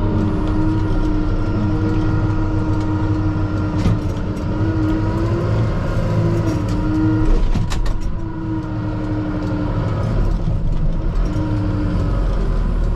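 Kubota M5-091 tractor's diesel engine running under load, heard from inside the cab, its pitch wavering and sagging as it lugs in high range while the bucket digs into snow, nearly stalling. A few short clicks and knocks.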